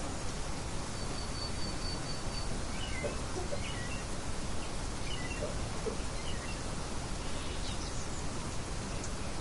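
Birds chirping over a steady rushing background hiss: a quick run of short high notes about a second in, then scattered brief chirps.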